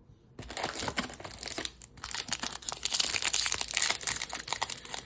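Wrapper of a 2021 Topps Series 2 baseball card pack being opened and crinkled by hand: a dense run of crackling that starts about half a second in.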